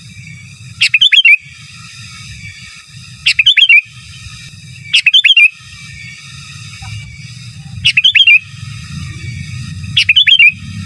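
Sooty-headed bulbul (kutilang) singing loudly: five short bursts of quick, bubbling notes, one about every two seconds. A steady high ringing tone and a low rumble run underneath.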